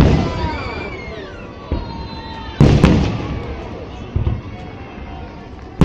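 Fireworks shells bursting overhead in a salute display: a loud bang about two and a half seconds in, followed closely by a second, with smaller bangs before and after, each one trailing off.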